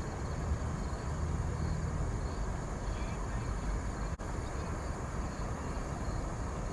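Creekside outdoor ambience: a steady rushing noise with a low rumble, and a thin steady insect drone high above it. The sound drops out for an instant about four seconds in.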